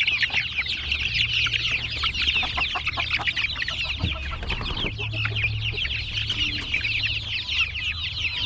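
A flock of young chickens peeping and chirping together: a dense, continuous chorus of many short, high cheeps, with a steady low hum underneath.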